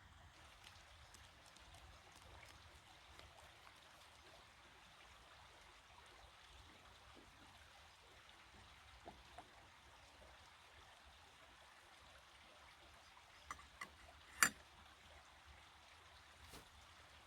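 Faint steady hiss of a small alcohol stove burning under a pot of water, with a few light clicks and one sharp tap about fourteen seconds in.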